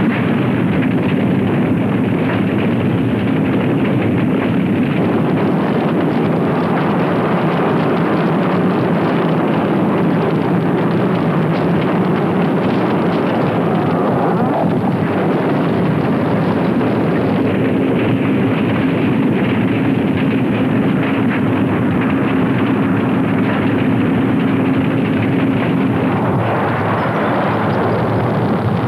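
Continuous loud roar of an erupting volcano, a dense rumble with a faint steady hum underneath that drops away near the end.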